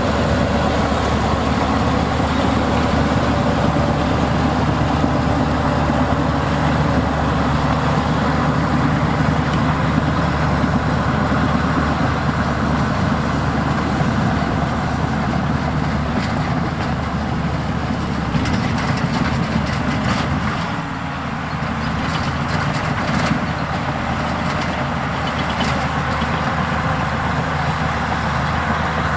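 Heavy diesel earthmoving machinery running steadily: a bulldozer and dump trucks working soil. The engine sound eases briefly a little past the middle, and a scatter of sharp clanks comes in the second half.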